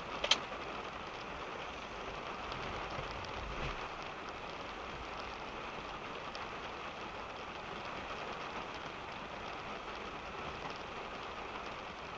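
Rain falling steadily on a car, heard from inside the cabin, a constant even hiss of drops. One sharp tick stands out just after the start.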